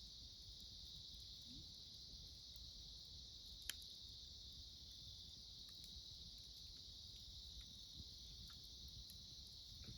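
Steady chorus of autumn insects chirring, with a few faint crackles and pops from a wood campfire; one sharper pop comes a little under four seconds in.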